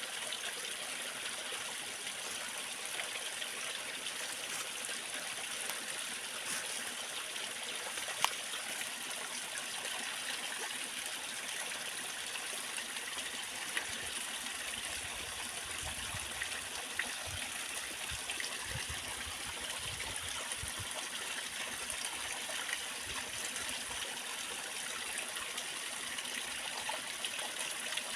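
Waterfall cascade with water rushing and splashing steadily, with a few brief low rumbles about halfway through.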